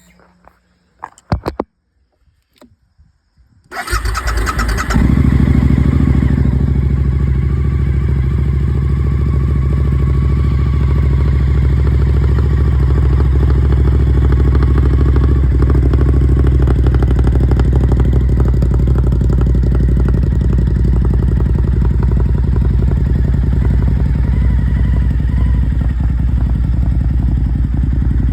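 A few clicks, then a Suzuki SV1000's 90-degree V-twin cranks on the starter about four seconds in, catches within a second or so and settles into a steady idle from a cold start.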